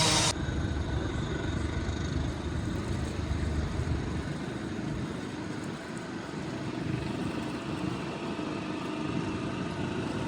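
Steady vehicle rumble.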